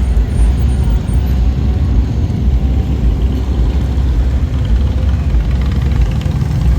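Motorcycle engines running in street traffic, a loud low steady rumble.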